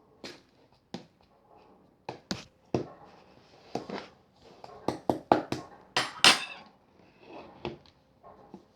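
Hands squeezing and pressing clear slime: an irregular run of sharp clicks and wet pops with soft squishing between them, loudest about six seconds in.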